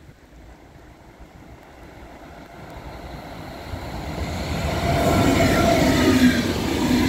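ICE high-speed train approaching and passing close by: a rushing rumble that swells steadily from about three seconds in, with a few steady whining tones over it once the power car is near.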